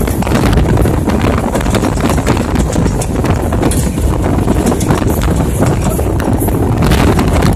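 Passenger train running along the track, heard from on board: a steady, loud low rumble with a fast, irregular rattling clatter of wheels on rails and of the coach.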